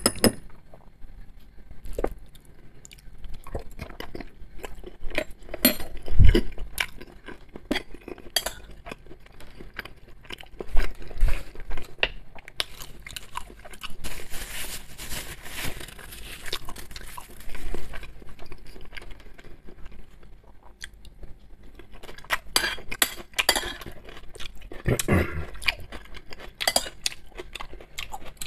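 Close-miked chewing with crunching, mixed with a metal fork clinking and scraping on ceramic plates. In the middle comes a few seconds of rustling as a paper napkin is rubbed over the mouth.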